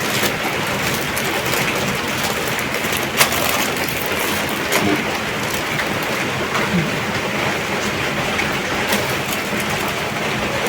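Steady rain-like hiss with scattered clicks and one sharp snap about three seconds in, as a toy truck's cardboard box and plastic packaging are opened by hand.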